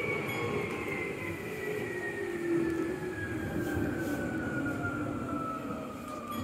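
Tokyu 8500 series commuter train braking into a station, heard from inside the driver's cab: the traction motors' whine falls steadily in pitch as the train slows, over the rumble of the wheels on the rails.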